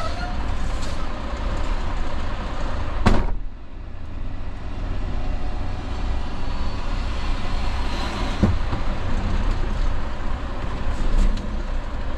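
Semi truck running with a steady low rumble. A sharp click comes about three seconds in and a fainter one about eight and a half seconds in.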